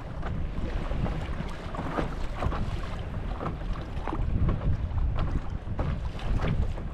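Wind buffeting the microphone in a low rumble, with small waves splashing and lapping irregularly against a paddleboard on choppy water.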